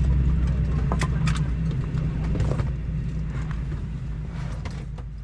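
Boeing 737-900 cabin at the gate: a steady low hum with scattered clicks and knocks, fading out near the end.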